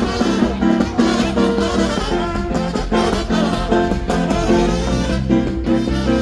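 Brass band music playing with a steady beat.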